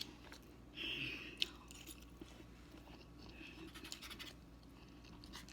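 A person chewing food close to the microphone, with a short rustly burst about a second in, a sharp click just after it, and fainter mouth clicks after that.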